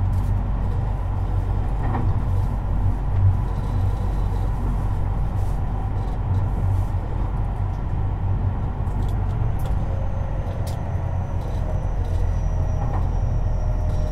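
Tobu 50090 series electric train running, heard from near the car's underfloor: a steady low rumble with scattered clicks from the wheels on the track. From about ten seconds in, a faint whine falls gently in pitch as the train slows.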